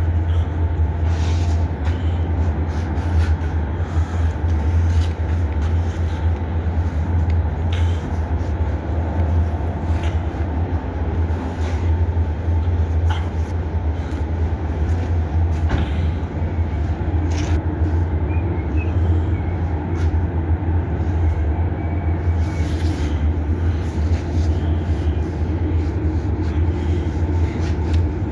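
A vehicle running: a steady low rumble with a few faint clicks scattered through it.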